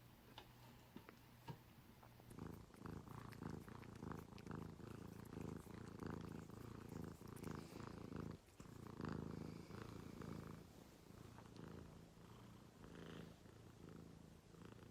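Domestic cat purring, starting about two seconds in, with a brief break a little past the middle, after a few faint ticks.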